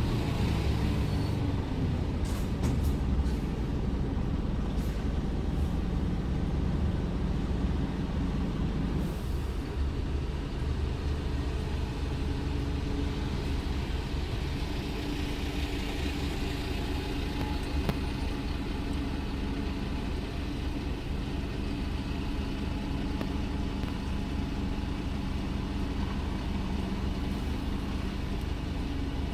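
Scania R410 truck's six-cylinder diesel engine running steadily under way, with road noise. A few brief clicks come early on, and the engine note changes about nine seconds in.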